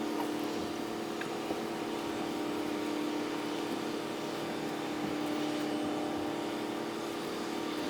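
Harbour boat engines running steadily, played back at five times speed, giving an unbroken constant hum over a noisy wash.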